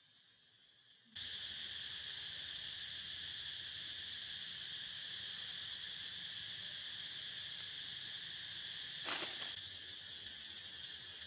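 Steady insect chorus, a high even chirring that starts abruptly about a second in, with one short click near the end.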